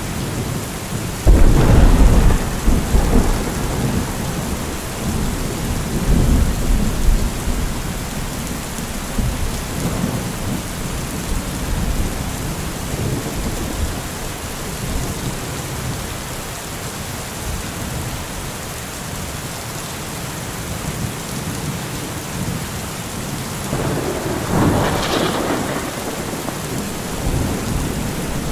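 Heavy rain falling in a steady hiss, with thunder: a loud, deep clap about a second in that rolls on for several seconds, and a second, crackling rumble near the end.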